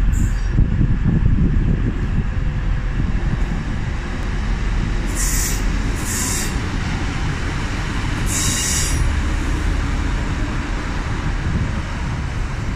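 TransPennine Express Class 185 diesel multiple unit at the platform with a steady low rumble. Three short high-pitched hisses come about five, six and eight and a half seconds in.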